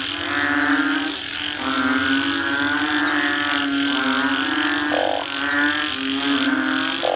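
Frogs croaking in long, droning calls, one after another with barely a break, and a short, higher croak about five seconds in and another near the end.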